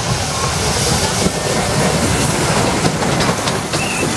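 Steam train rolling past on the track, a steady, dense running noise of the locomotive and its wagons.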